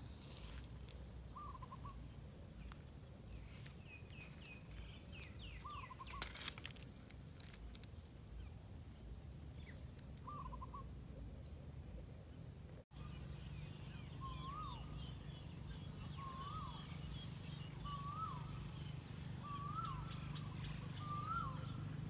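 A bird calling repeatedly: a few short warbled notes several seconds apart, then a regular series of short rising-and-falling notes about every second and a half, each a little higher than the last, over a low steady rumble.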